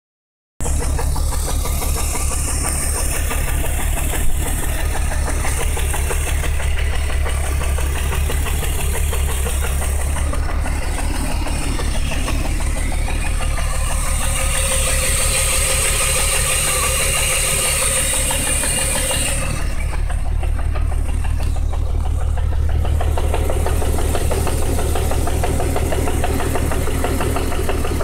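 BMW 328is's M52 inline-six, fitted with S52 M3 camshafts, running with a steady, rhythmic knocking. The owner doubts the cam timing is right and does not know what the knock is.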